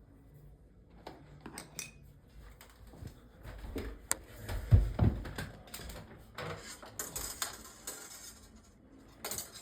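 Small clicks and taps of screws and a hand screwdriver as screws are driven back into a wooden frame, with a louder knock about five seconds in and scratchy rubbing near the end.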